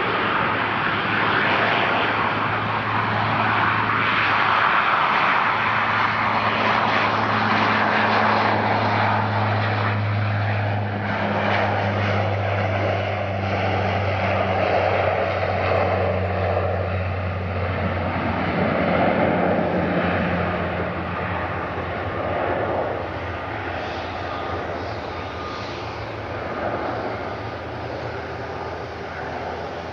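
Airliner engines running, a steady rushing noise with a low hum that fades out about two-thirds of the way through.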